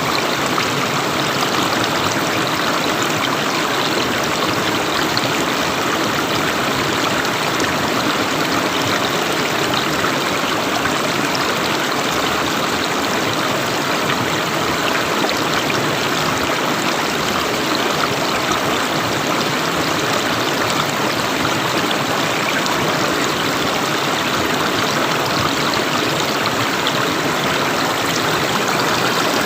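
River water flowing, a steady rushing and burbling with no change in level.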